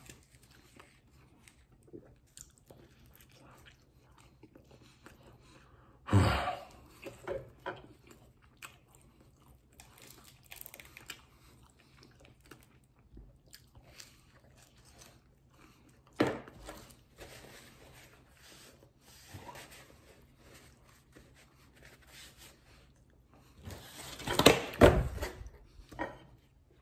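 A person chewing and biting pizza crust dipped in garlic butter sauce, with soft crunching and mouth sounds. There are a few louder sudden sounds: about six seconds in, midway, and a cluster near the end.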